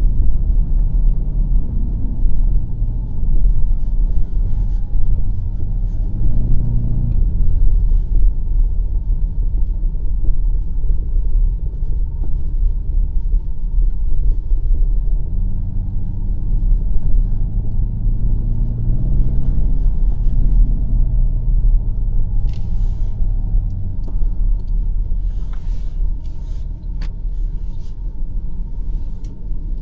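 BMW X5 M50i's twin-turbo V8 and drivetrain on the move as a deep, steady rumble. The engine note rises and falls twice as the car speeds up and eases off. A few short clicks come in the later part.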